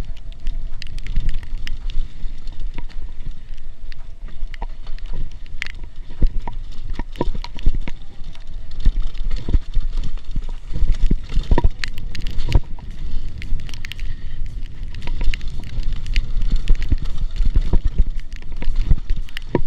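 Trek Marlin hardtail mountain bike descending a wet, rocky trail: a steady stream of irregular knocks, clatters and rattles as the bike hits rocks and roots, over a low rumble of wind and rolling noise on the microphone.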